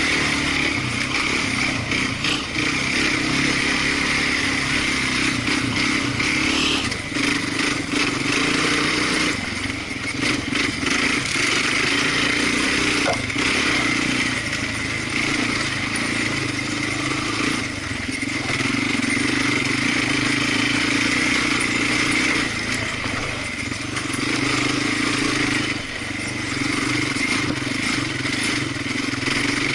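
Off-road vehicle engine running steadily during a trail ride, its loudness dipping briefly every few seconds as the throttle eases and picks up again.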